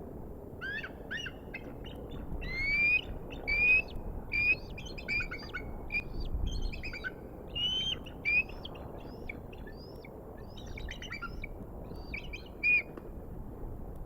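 Bald eagle calling: a long series of high, chirping, piping notes, many rising in pitch, that stops about a second before the end. Steady wind noise runs underneath.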